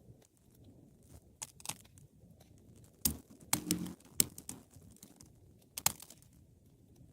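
Wood fire crackling, with scattered sharp pops from the burning logs; the loudest snaps come about three, four and six seconds in.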